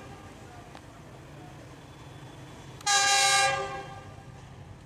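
Horn of a Pakistan Railways GEU-20 (GE U20C) diesel locomotive: one short multi-note blast about three seconds in, over the low steady rumble of the approaching locomotive.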